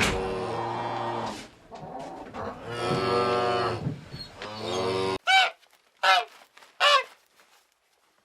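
Cattle mooing, several long drawn-out moos. About five seconds in, the sound cuts abruptly to three short honks of geese.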